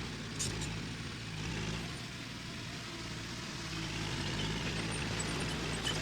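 Diesel engine of earth-moving machinery running steadily at a low, even pitch. It eases off a little in the middle and picks up again near the end, with a faint click about half a second in.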